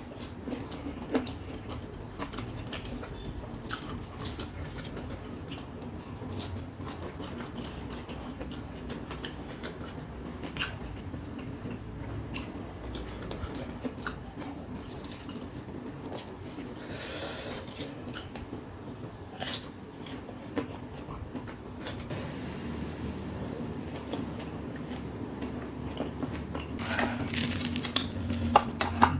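Eating sounds: fried snacks being bitten and chewed, with scattered small clicks and a few louder clatters, one sharp knock about two-thirds of the way through and a cluster of them near the end, over a steady low hum.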